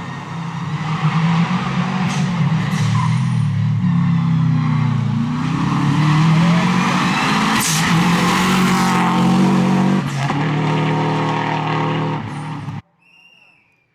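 Subaru Legacy rally car's flat-four boxer engine driven hard on a stage, revs dropping and climbing again through gear changes and corners. The engine sound cuts off abruptly about a second before the end.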